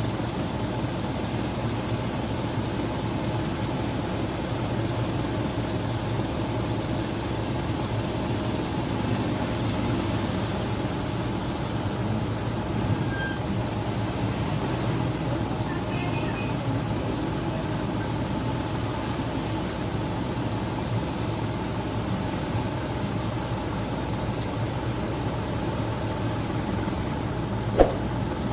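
Dump truck engine running steadily, with a single sharp click near the end.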